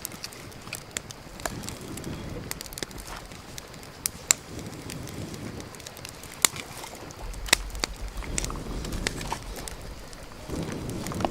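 Wood fire crackling, with sharp irregular pops, a few of them loud, over a low rumble.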